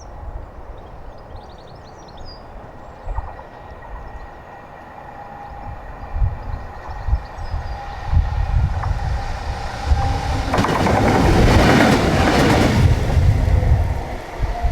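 A train passing: its rumble builds over several seconds and is loudest for about two and a half seconds near the end.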